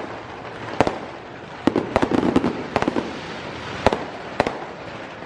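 Fireworks going off: sharp bangs at uneven spacing, about one every half second to a second, with a quick run of crackling pops about two seconds in.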